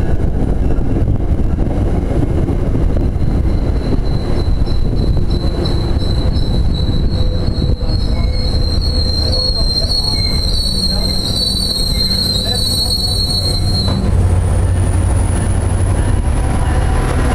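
MBTA commuter rail train rolling past with a steady low rumble. Its wheels squeal in a high, wavering tone from about three seconds in until it cuts off a few seconds before the end. A thin high whine rises slowly near the end.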